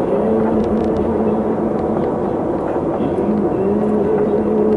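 Vehicle engine running at a steady drone while driving, over continuous road noise.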